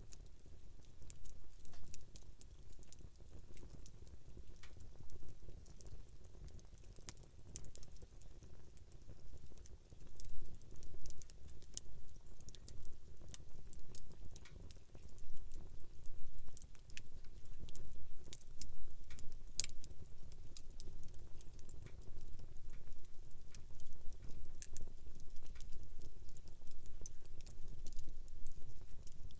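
Wood campfire burning: irregular sharp crackles and pops, several a second, over a low steady rumble.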